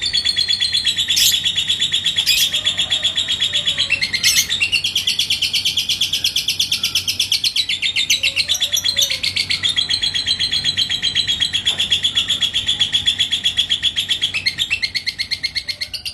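Lovebird singing its long ngekek: one unbroken, fast chattering trill, high-pitched and loud, with a few sharp clicks in the first few seconds.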